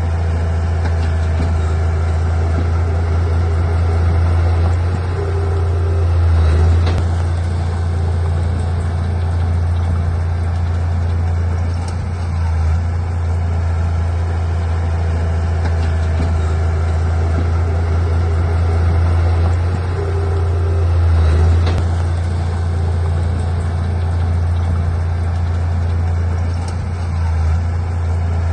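Diesel engine of heavy earthmoving machinery running steadily with a deep drone, swelling briefly twice.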